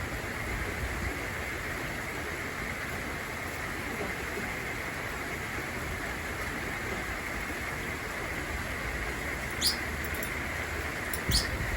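Steady hiss of rain falling outside, with a budgie giving two short, high chirps near the end.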